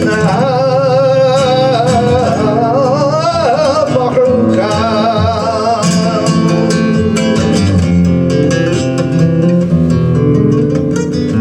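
Flamenco farruca: a singer's wavering, ornamented vocal line over acoustic flamenco guitar, then from about six seconds in, rapid sharp percussive strikes join the guitar.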